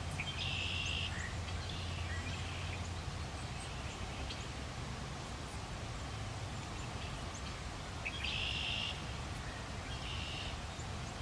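Open-air ambience with a bird giving short, high, buzzy calls, once about a second in and twice near the end, over a low steady hum in the first few seconds.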